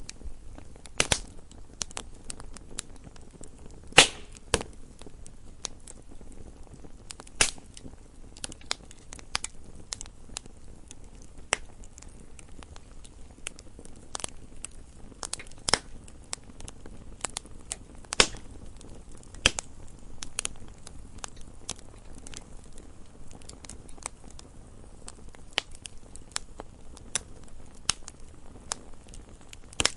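Campfire crackling: wood burning with irregular sharp pops and snaps over a faint low hiss. Several louder pops stand out, the loudest about four seconds in and again around eighteen seconds.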